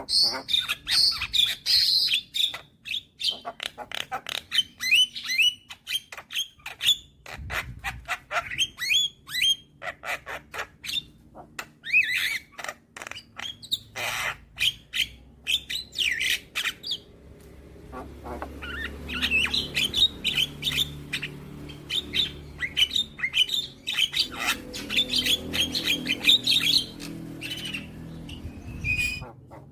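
Young Javan myna (jalak kebo) singing, a fast, varied string of harsh squawks, chirps, whistled notes and clicks. A low steady hum joins in about two-thirds of the way through.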